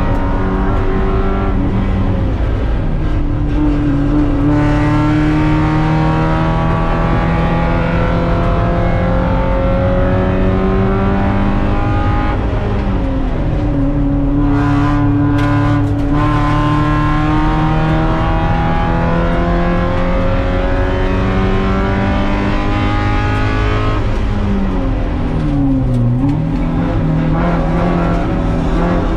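Spec Miata's four-cylinder engine heard inside the stripped race car's cabin, at full throttle on track, its pitch climbing as it accelerates and dropping at each gear change. Near the end it falls away under braking, with a quick rev blip on a downshift.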